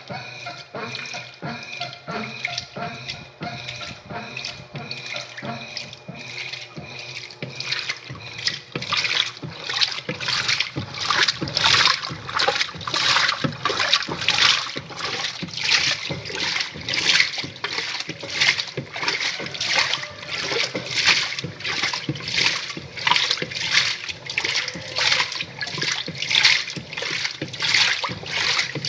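'Faz tudo' washing machine working water in its tub. A steady motor hum with water runs for the first eight seconds or so, then the machine sloshes water in regular swishes about twice a second.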